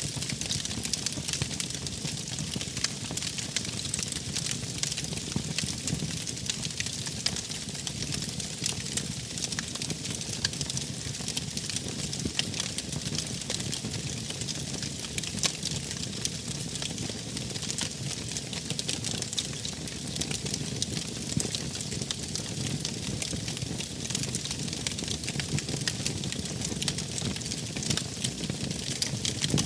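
Wood fire burning steadily, with frequent small crackles and pops over a low, even rush of the flames.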